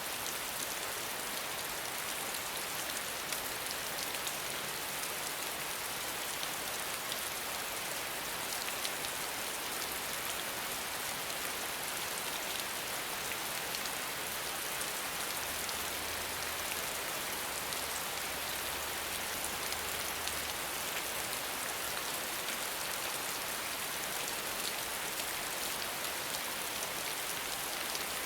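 Steady rain falling, an even hiss with many fine drop ticks and no change in intensity.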